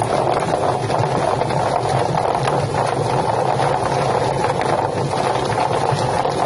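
Drum-type chicken feather plucking machine running: a steady motor hum under a dense churning noise.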